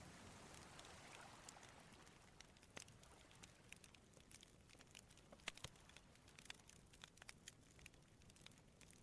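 Faint campfire of burning wood crackling, with scattered sharp pops and snaps, the loudest about halfway through. A soft rush of sea waves fades out over the first couple of seconds.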